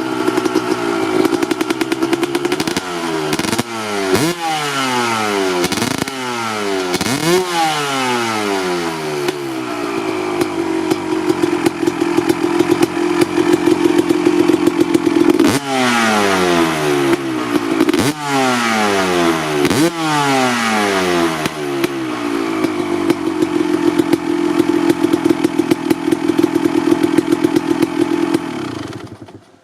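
Honda CR250R two-stroke engine running at a steady idle, blipped up sharply and back several times in two quick bursts. It cuts off near the end.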